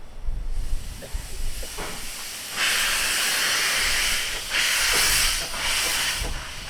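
Narrow-gauge steam locomotive letting off steam: a hiss builds, then two loud, sharp-edged blasts of hissing steam, one after the other.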